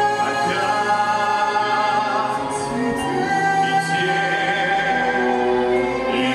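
A singer holding long notes over an instrumental backing, in a slow vocal ballad.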